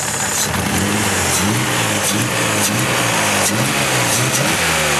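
Mazda 626 engine revved up and down several times in quick blips while being treated with Seafoam, with an exhaust leak that an onlooker suspects.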